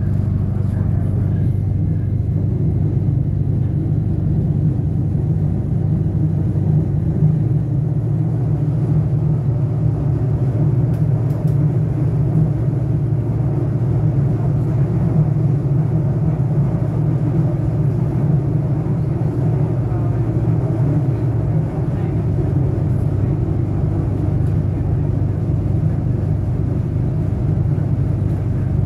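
Steady running rumble of an Adelaide Metro diesel railcar under way, heard from inside the carriage: a low engine drone mixed with wheel and track noise.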